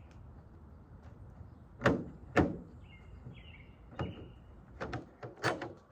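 Sharp knocks and clicks of a sliding door lock being worked and fitted on the door, two loud ones about two seconds in and several smaller ones later, with a bird chirping briefly in between.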